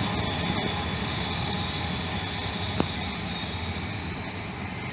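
Caltrain passenger train rolling past, a steady rumble of wheels on rail that slowly fades as it draws away, with one short click about three seconds in.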